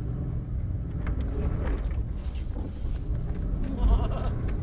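Engine of a Lorinser-tuned Mercedes S600, a V12, heard from inside the cabin as a steady low rumble while the car drives through snow.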